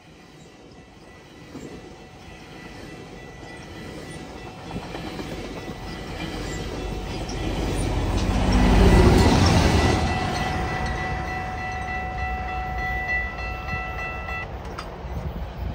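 A train passing close by: the rumble builds to its loudest about nine seconds in as the locomotive goes by, then the cars roll past with wheels clicking over the rail joints. Steady high tones hold through the second half and cut off near the end.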